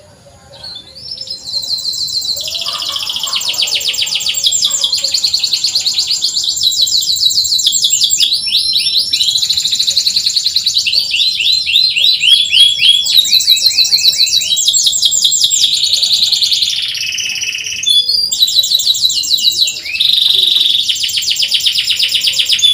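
Domestic canary singing a long song of fast repeated chirping trills, the "cuit cuit" style used to tutor other canaries. It starts about a second in and has a couple of short breaks near the end.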